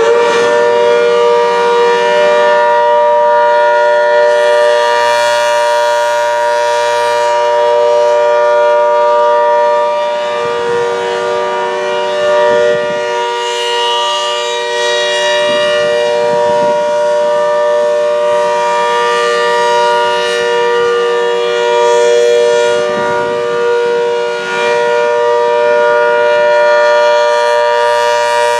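ACA Hurricane 130 MKII outdoor warning siren sounding its steady Alert signal, wound up to full pitch: a loud chord of several held tones that does not change pitch. The loudness swells and fades gently every several seconds.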